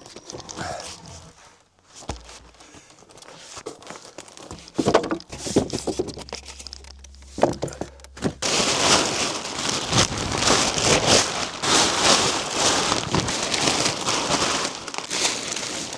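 A plastic tarp being handled and spread over a lumber pile, crinkling and rustling loudly from about eight seconds in. A few knocks and softer rustles come before it.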